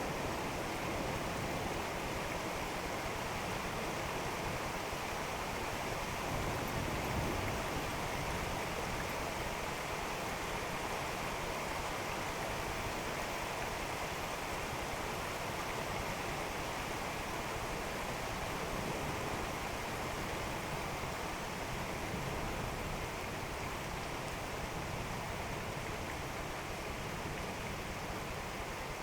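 Steady rain falling during a thunderstorm, a continuous even hiss with no distinct claps.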